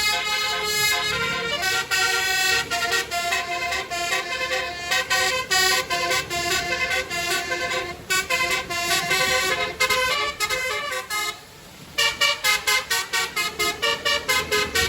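Basuri multi-tone vehicle horn playing a melody of stepping toots. It breaks off briefly about eleven seconds in, then sounds rapid repeated toots, about four a second.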